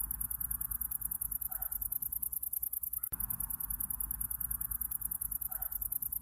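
Summer-night insect chorus: a fast, even, high-pitched pulsing trill over a soft hiss and low rumble, with a short double call about a second and a half in and again near the end. The same few seconds repeat as a loop.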